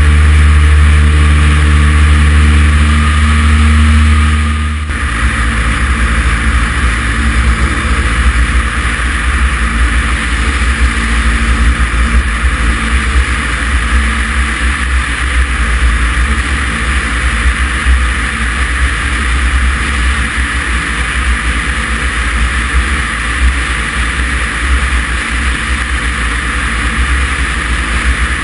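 Cessna 140's light-aircraft piston engine and propeller droning steadily. About five seconds in, the sound changes abruptly to a rougher, slightly quieter low drone, which then holds steady.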